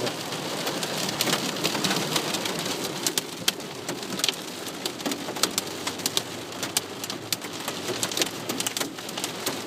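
Heavy rain pelting a car's roof and windscreen during a thunderstorm, heard from inside the car: a steady hiss dotted with many sharp ticks of drops striking.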